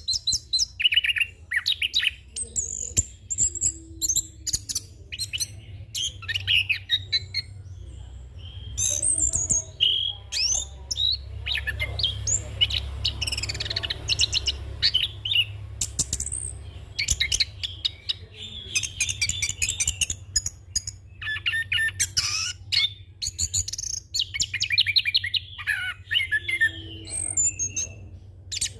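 Orange-headed thrush singing a fast, varied song of chirps, whistles and trills run together, full of phrases mimicked from other birds, over a steady low hum.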